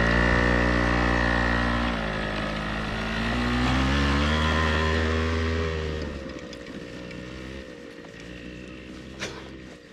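Small moped engine revving hard on a dirt track, its pitch rising and falling with the throttle. It grows much fainter after about six seconds, and there is a single sharp click near the end.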